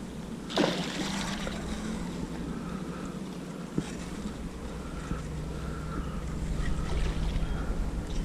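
Wind and water noise around a kayak being towed by a hooked snook, with a sudden loud thump about half a second in and a few lighter knocks later.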